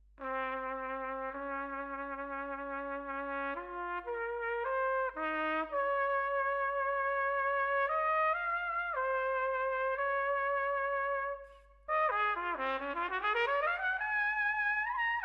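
A solo brass instrument plays a slow melody of held notes with audible vibrato. The notes waver in pitch, most widely in the rising phrase that follows a short breath break about eleven seconds in.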